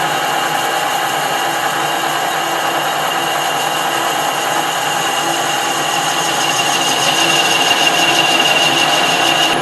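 Metal lathe running and turning a piece of cast iron: a steady machine whine with a high tone that grows a little louder in the second half.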